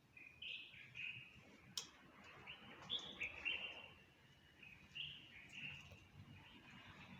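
Songbird chirping: a string of short, high chirps and brief trills that goes on with small pauses, faint, with one sharp click a little under two seconds in.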